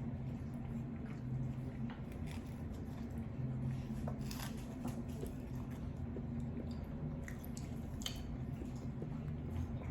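A person eating noodles: close-up chewing and squishy mouth sounds, with a handful of small clicks, over a steady low hum.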